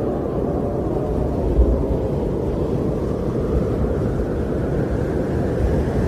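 Winter wind blowing steadily, a deep even rush with a brief swell about one and a half seconds in.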